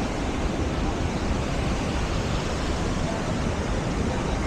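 Large waterfall in monsoon flow making a steady, loud rushing noise.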